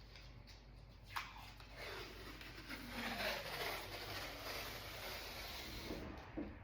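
Tape being pulled off the roll in one long rasping strip, after a single click about a second in.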